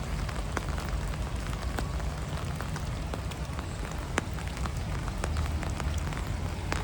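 Steady rain falling on a city street, with many sharp close drops ticking irregularly over a low steady rumble.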